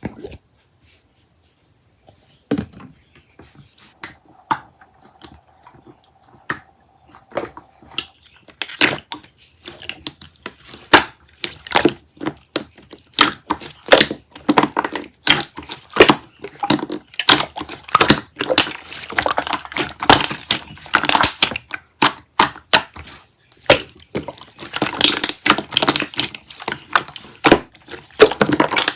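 Rapid, irregular clicking and crackling, sparse at first and growing dense and continuous after about nine seconds, with a faint steady hum for a few seconds early on.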